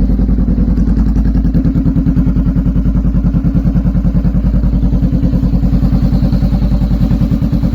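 Honda CB500F parallel-twin engine idling steadily with an even, fast exhaust pulse. It runs very quietly, with no ticking knock from the engine.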